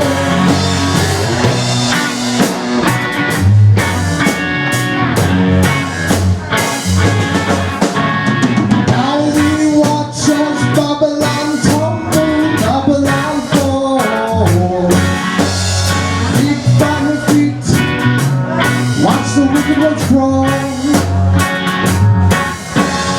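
Blues-rock band playing an instrumental passage: guitar over bass and drum kit, with bending guitar notes in the middle.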